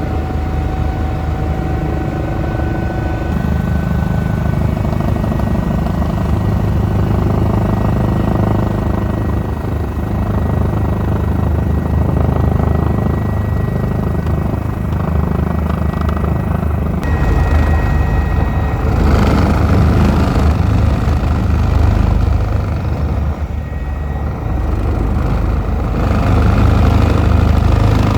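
Eurocopter EC145 twin-turbine helicopter in flight: a steady drone of turbines and rotor with thin, steady whine tones over it. It grows somewhat louder and rougher after about seventeen seconds.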